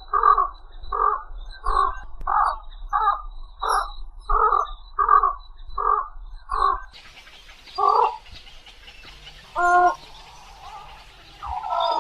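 A large wading bird (bangau) giving harsh, cawing calls, repeated about one and a half times a second for roughly seven seconds. Then, against a different background hiss, come a few scattered calls: one near eight seconds, a short call with several tones around ten seconds, and a louder burst at the end.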